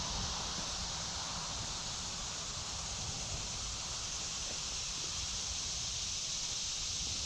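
Steady woodland background of a babbling creek and droning insects (locusts, i.e. cicadas), an even high hiss with a low rumble beneath, unchanging throughout.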